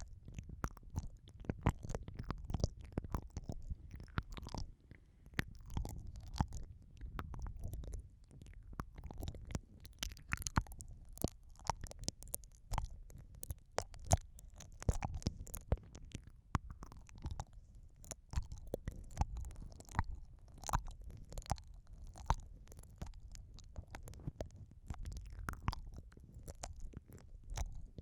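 Close, wet mouth sounds of ASMR ear eating: lips and tongue smacking, sucking and clicking right against the microphone, in dense irregular clicks over a low rumble of contact.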